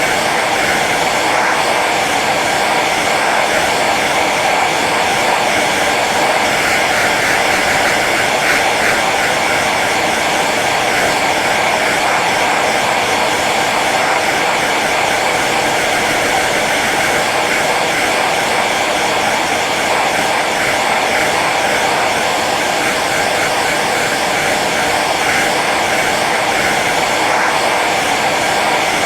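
Hair dryer running steadily on its low setting: an even, unchanging rush of blown air and motor.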